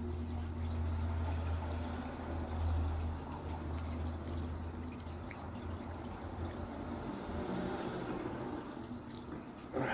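Close-up chewing of a white fudge covered Oreo with the mouth closed, with wet mouth sounds, over a low steady hum that fades after about six seconds. A short, sharper sound comes just before the end.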